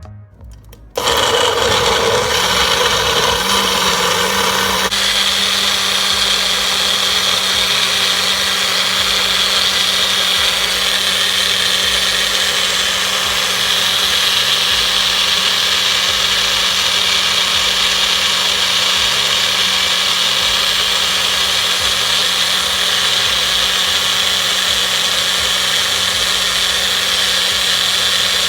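An electric blender motor switches on about a second in and runs steadily at high speed, mixing the hair-mask ingredients. Its tone settles after a few seconds once it is up to speed.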